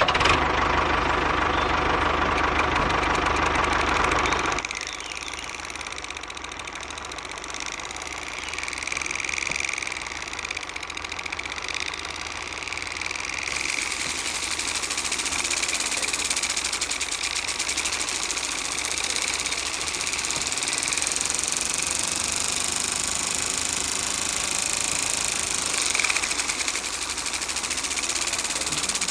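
Small electric motor of a miniature DIY chaff cutter model running with a steady mechanical whir and a high whine. It is louder and fuller for the first four seconds or so, then drops a little and runs steadily.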